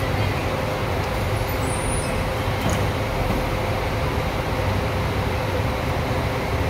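Diesel engine of a Scania K410 coach idling with a steady low rumble and a faint constant tone above it.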